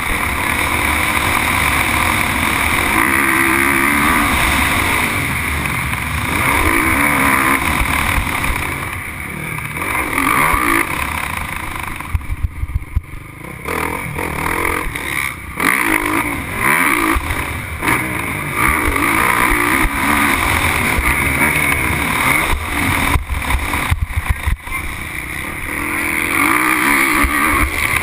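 Motocross motorcycle engine at race pace, revving up and falling back again and again through the corners and straights, with the throttle briefly cut about halfway through.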